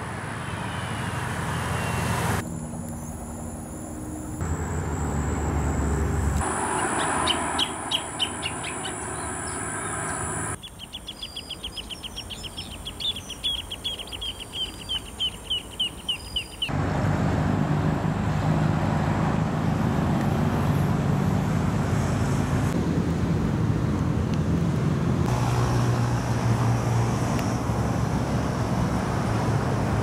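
Outdoor ambience with birds calling, including a fast run of sharp repeated chirps, about four a second, in the middle. This gives way to a steady low rumble for the second half.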